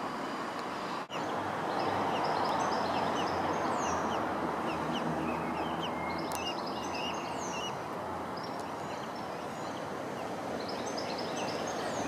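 Many short, high bird chirps, one after another, over a steady background rush.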